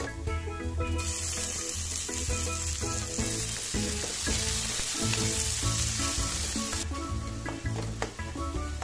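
Onion, garlic, ginger and chopped tomatoes frying in hot oil in a steel wok, stirred with a spatula: a loud sizzle starts suddenly about a second in and cuts off near the end.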